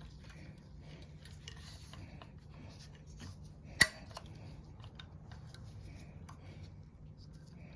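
Small handling sounds of work at a bench: light scraping, rubbing and tapping of parts and tools over a low steady hum, with one sharp click nearly four seconds in.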